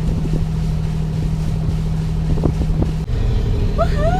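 Sailing yacht's engine running steadily while motoring, a low even drone with a few faint knocks. Near the end a voice gives a rising and falling whoop.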